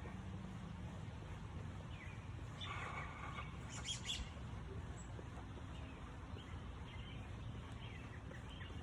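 Small birds chirping now and then over a low, steady background hum, with a brief cluster of louder calls about three to four seconds in.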